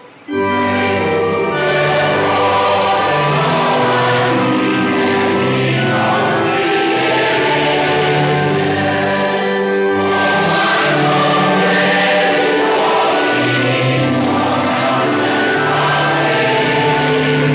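Church choir singing a hymn with instrumental accompaniment, starting just after a brief pause.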